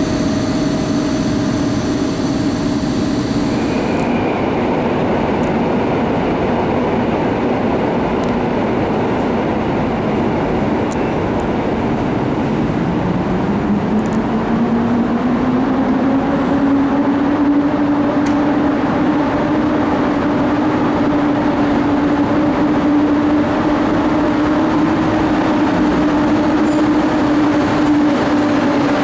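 Electric train at a station platform, running with a steady mechanical hum. About twelve seconds in, a tone rises in pitch over several seconds and then holds steady.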